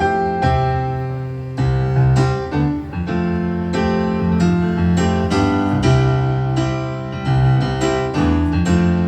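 Piano played solo, chords struck every half second to a second over held bass notes.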